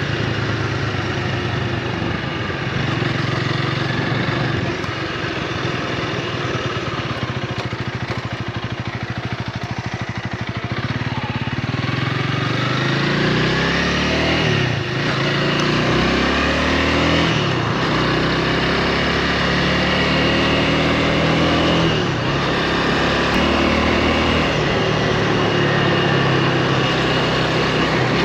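A 2024 Honda Rebel 300's single-cylinder engine runs steadily at low revs for the first ten seconds or so. It then pulls away and accelerates through the gears, rising in pitch with a short dip at each shift, about three times.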